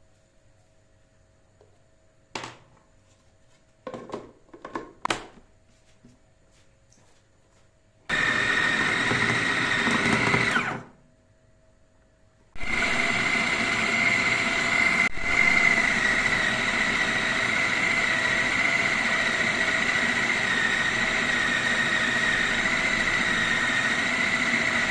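A few light clicks and knocks, then a small electric kitchen motor of the blender kind runs with a steady high whine for about three seconds and stops. It starts again a second and a half later and runs steadily for about twelve seconds.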